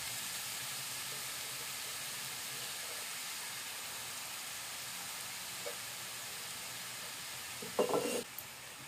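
Grated carrots frying in hot ghee in a kadai, a steady sizzle. Near the end comes a brief clatter, and the sizzle drops away after it.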